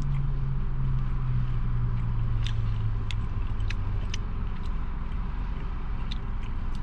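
A man chewing a bite of burger patty, with scattered small sharp mouth clicks, over a steady low hum inside a car. A low drone in the hum sinks slightly in pitch and fades about four seconds in.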